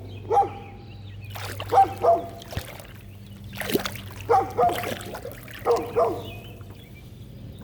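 A dog barking repeatedly: short barks, mostly in pairs, every second or two.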